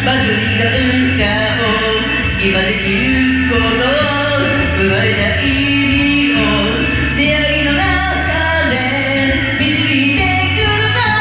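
Singing over a karaoke backing track of a pop song, with a steady bass line.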